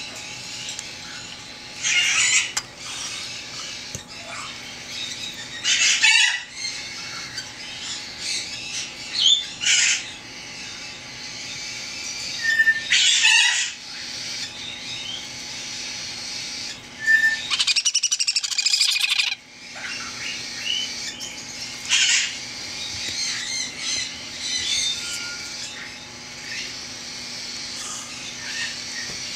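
Baby parrot chicks giving harsh, raspy calls every few seconds, with one longer rapidly pulsing call about two-thirds of the way through and a few short thin chirps between.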